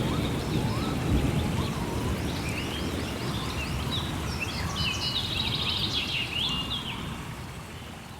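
Rainforest ambience: rain with a low rumble of thunder dying away, while birds chirp rapidly over it, busiest in the middle and later part. The whole mix fades steadily toward the end.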